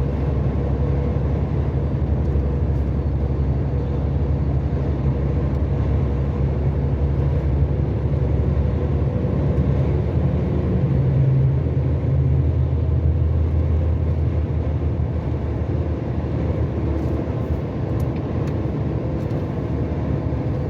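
Truck's diesel engine and road noise heard inside the cab while driving at highway speed, a steady low drone; the engine note shifts lower about halfway through.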